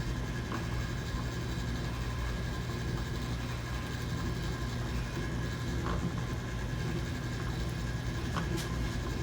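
Craftplus 3976-00 edge dyeing machine running steadily, its small motor turning the dye wheel with a low hum, and a few faint clicks near the end as the leather belt is drawn along it.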